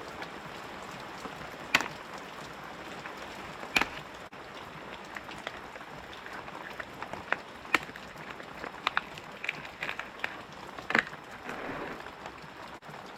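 Steady rain falling, an even hiss, with a few sharp knocks and taps scattered through it, the loudest about two and four seconds in.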